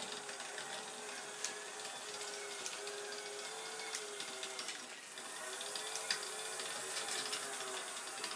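Motors and gears of a radio-controlled model EKG-5 excavator whining, the pitch sagging and rising as the machine's movements change speed, with scattered sharp clicks.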